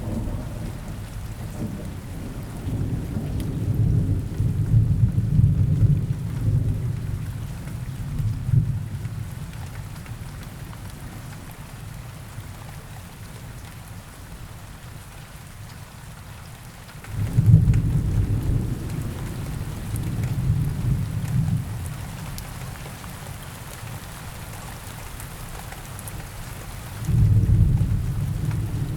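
Steady rain falling in a forest, with deep rolls of thunder: one long rumble over the first several seconds, a sudden louder one about 17 seconds in, and another starting near the end.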